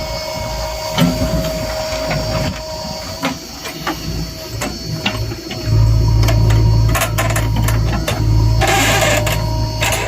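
JCB 3DX backhoe loader at work: diesel engine running with a steady whine and scattered clicks and knocks. The engine's low rumble gets markedly louder about six seconds in, as under load.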